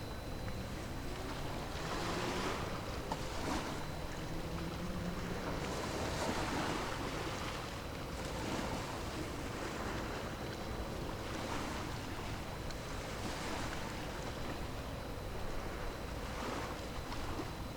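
Waves washing in, swelling and easing every two to three seconds, with wind buffeting the microphone. A faint low hum runs under them for the first few seconds.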